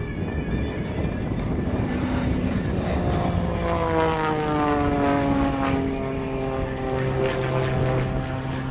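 A Pitts S-2B aerobatic biplane's six-cylinder Lycoming piston engine and propeller drone. The pitch falls steadily over two to three seconds from about three seconds in, then holds level.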